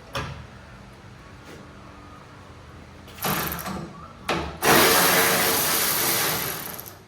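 Impact wrench run in bursts: a short burst about three seconds in, a brief blip, then a longer burst of about two and a half seconds that tapers off. A sharp click comes just before, near the start.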